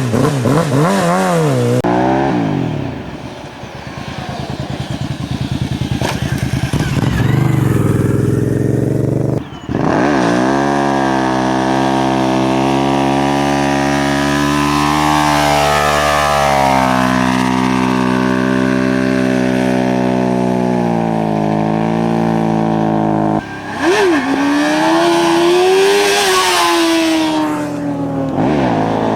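Motorcycle engine revved up and down in quick blips, then run roughly at low revs for several seconds. After a short break it is held at high revs with slow rises and falls in pitch, then revved up and back down once more near the end.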